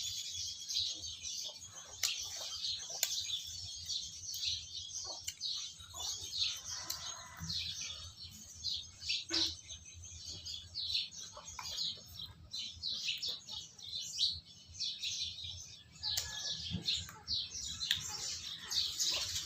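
Many small birds chirping in a dense, continuous chatter of short high calls, with a few light clicks and knocks in between.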